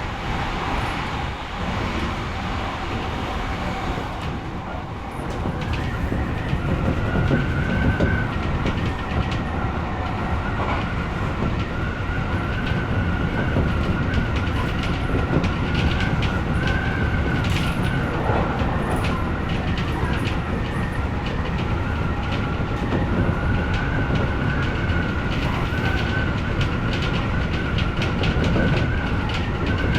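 Odakyu electric commuter train running along the line, with a steady high whine setting in about six seconds in and rail-joint clicks now and then.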